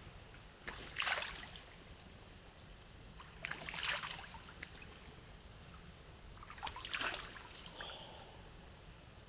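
Three short bursts of water sloshing, a few seconds apart.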